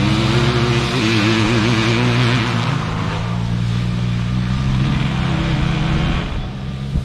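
Motocross dirt bike engines running, the pitch wavering up and down as the throttle is worked, then dropping away about six seconds in.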